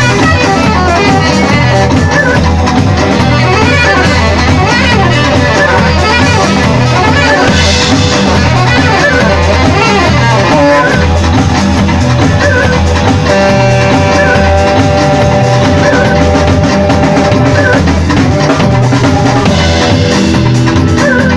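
A live band playing, with drum kit and guitar over a pulsing bass; long held melody notes come in about halfway through.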